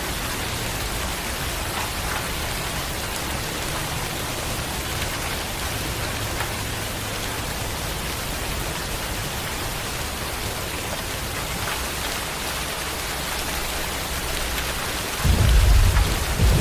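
Steady rain falling, an even hiss with faint drop ticks. About a second before the end a deep rumble of thunder breaks in and becomes the loudest sound.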